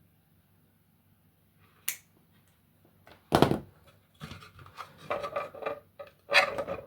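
Hands handling 3D-printed plastic parts on a work surface: a sharp click, a louder knock about halfway through, then a run of rubbing and scraping.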